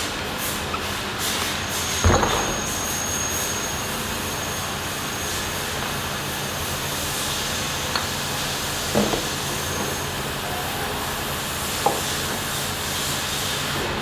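Steady factory machinery noise with a low hum. There is a heavy clank about two seconds in, a few lighter knocks later, and a thin high whine for several seconds in the middle.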